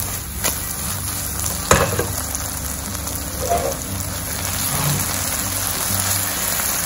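Thickened vegetable sauce sizzling in a hot pan, a steady hiss, with a few clicks of a utensil against the pan, the loudest a little under two seconds in.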